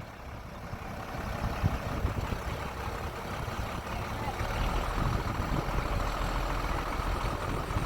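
Heavy diesel engine of an excavator or dump truck running steadily, getting louder about a second and a half in and gaining a deep low hum about halfway through.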